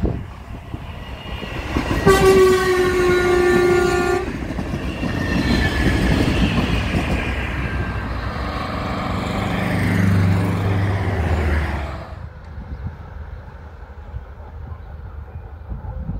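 A passenger train sounds one long, steady horn blast about two seconds in, then passes close by with a loud rumble and a slowly falling whine. The sound cuts off abruptly about twelve seconds in, leaving a much quieter outdoor background.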